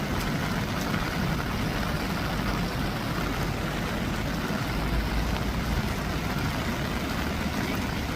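Steady road traffic noise: a low engine rumble under an even hiss, with a slightly stronger low rumble about five seconds in.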